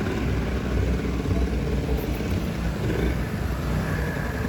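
A steady low rumble of a motor vehicle running.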